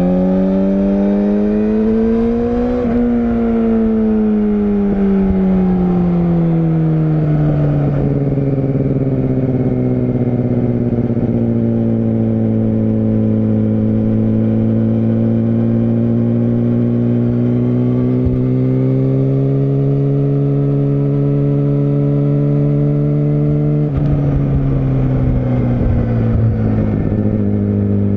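Yamaha YZF-R6 inline-four motorcycle engine under way. It revs up for a few seconds, then the revs fall away and hold low before climbing slowly again. About 24 seconds in, the revs step down at a gear change.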